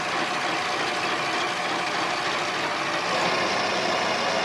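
Harbor Freight mini lathe running steadily, its motor and gear train giving an even whir.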